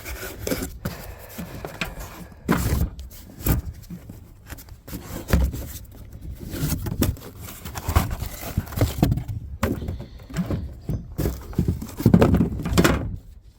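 Irregular thumps, clunks and knocks of parts and tools being handled and set down, a dozen or more separate hits, with a cluster of louder clunks near the end.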